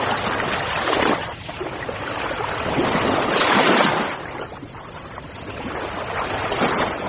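Sea waves surging and washing back in repeated swells, the loudest surge about three and a half seconds in.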